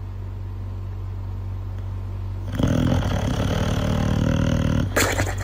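A dog growling for about two seconds, starting midway through, over a steady low hum, followed by a short sharp sound near the end.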